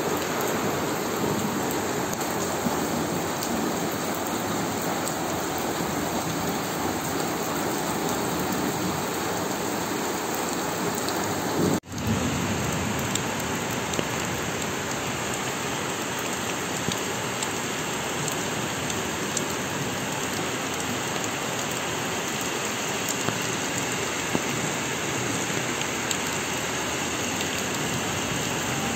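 Heavy rain pouring steadily, a dense even downpour on pavement and wet grass. The sound drops out for an instant about twelve seconds in.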